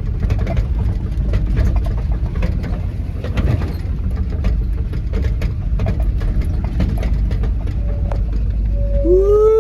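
1973 Chevy K20 pickup driving off-road in four-wheel drive, its engine and drivetrain running with a steady low rumble and frequent rattling clicks from the cab. Near the end a short pitched sound rises and then falls.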